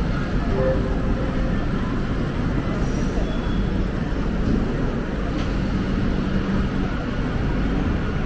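Steady rumble and rush of a moving train heard from on board an LHB passenger coach, with a faint high whine through the middle.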